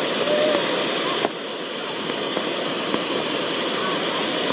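Dense, steady crowd noise with a hissing wash. A sharp click comes about a second in, with a few faint ticks after it.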